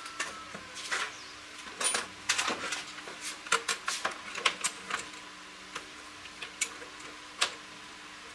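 A run of irregular sharp clicks and light knocks, as from hand tools and metal parts being handled, thickest in the first half and thinning out toward the end.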